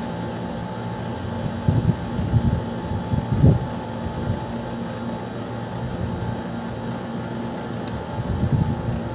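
A steady mechanical hum, with a few irregular low rumbles about two, three and a half, and eight and a half seconds in.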